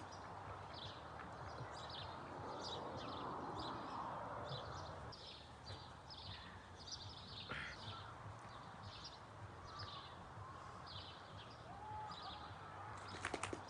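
Faint outdoor ambience: a small bird chirping short high notes about once or twice a second over a low steady hum, with a brief cluster of sharp clicks near the end.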